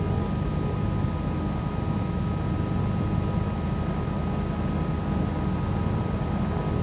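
Cockpit drone of a 1974 Cessna 310Q's twin piston engines running at low power on the ground, a steady low rumble with a faint high whine above it.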